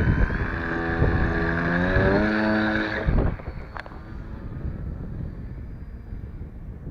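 Brushless electric motor and 10-inch propeller of a foam RC plane at high throttle, a loud buzzing whine that rises in pitch, then drops to a quieter, steady high whine about three seconds in. Wind noise on the microphone throughout.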